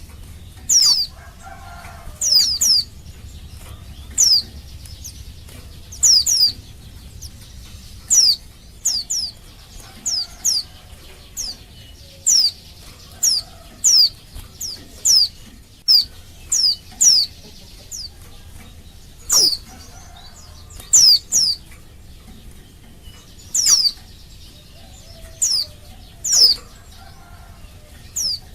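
Female white-eye (pleci) calling: short, high notes that slide downward, given singly or in quick pairs and threes every second or two. This is the female's call to males.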